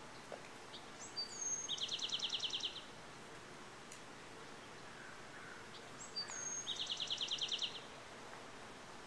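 A songbird sings the same short song twice, about five seconds apart: a brief high note, then a fast, even trill of about a dozen notes. A steady outdoor background hiss runs underneath.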